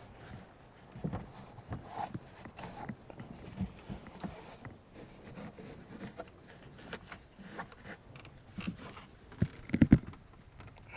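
Scattered light rubbing, tapping and handling sounds as protectant spray is worked onto a boat's surface, with a quick run of louder knocks near the end.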